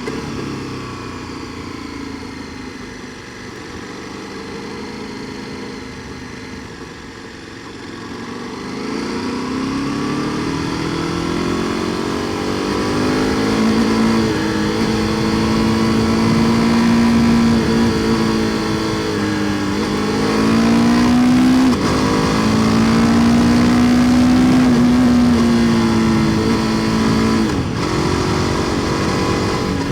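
KTM 1290 Super Duke R Evo's V-twin engine through an Akrapovic exhaust, heard on the move. It runs quieter at first, then rises in pitch and level about nine seconds in and holds steady at higher revs, dipping briefly twice in the second half.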